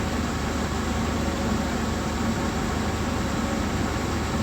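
2008 Honda Civic's engine idling, a steady hum with an even hiss over it.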